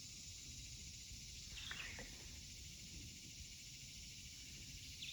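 Steady, high insect chorus of a swamp, with a short falling call, most likely a bird, about a third of the way in and another right at the end.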